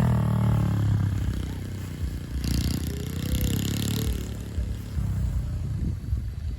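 Honda CRF50 mini bike's small single-cylinder four-stroke engine running. Its note drops and fades over the first two seconds as the bike moves away, then it continues quieter and lower.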